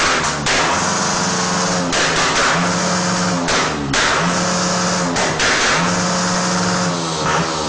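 Small-displacement motorcycle engine revved up against its rev limiter. It is held flat at the cut four times, dropping off briefly and climbing back between each hold.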